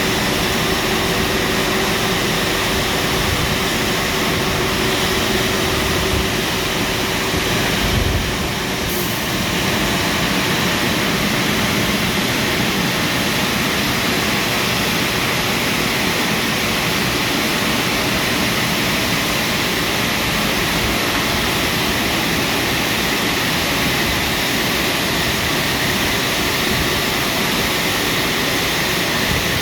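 WashTec SoftCare Pro rollover car wash running, a loud, steady rushing noise from its water jets or drying blowers. A steady hum stops about seven seconds in.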